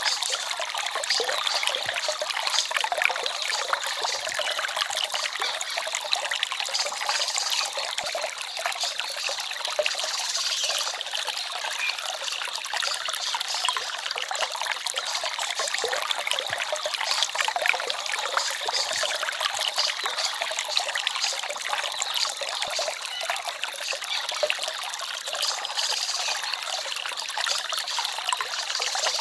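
Small stream trickling and splashing over stones, a steady bright babble of running water.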